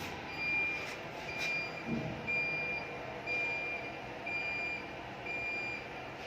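Electronic warning beeper beeping steadily, about once a second, six times, each beep a single high tone lasting about half a second. There is a faint knock about a second and a half in.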